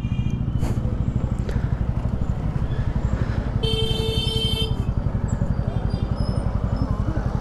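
TVS Ronin 225 single-cylinder motorcycle engine running at low speed, its exhaust giving a steady, fast pulsing beat. A vehicle horn toots for about a second midway.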